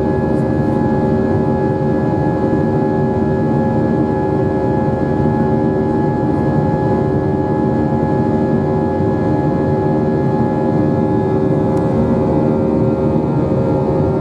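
Airbus A321 jet engines heard from inside the passenger cabin: a steady hum and rush with several constant tones, the engine pitch holding level.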